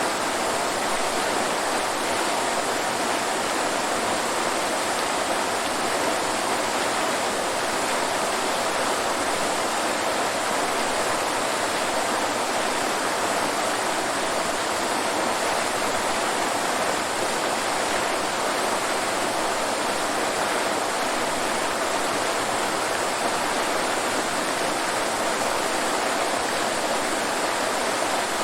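Waterfall: a steady, unbroken rush of falling water with no changes or separate events.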